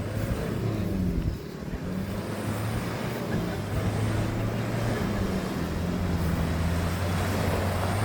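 Tractor engine running steadily, its pitch holding with small rises and dips.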